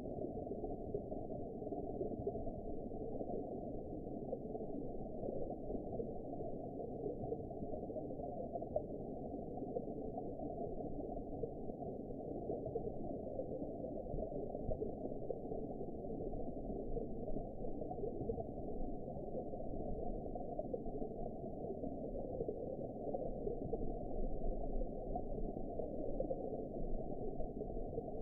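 Underwater ambience: a steady, low rushing noise with no distinct events.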